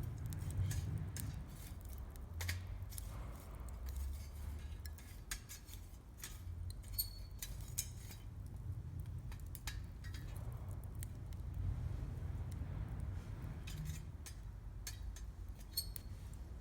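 Wood campfire crackling: irregular sharp pops and snaps over a low steady rumble. Two of the pops, about seven seconds in and near the end, ring briefly.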